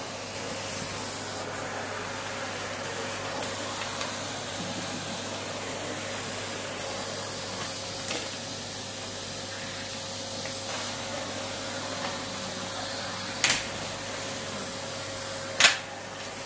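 Vacuum cleaner running steadily with a constant whine. Two sharp knocks near the end; at the second the whine stops and the sound drops a little.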